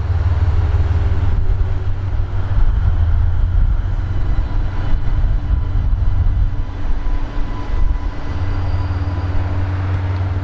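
DF200 diesel-electric locomotive's diesel engines running with a loud, steady low rumble and a faint steady whine above it, easing slightly about eight seconds in.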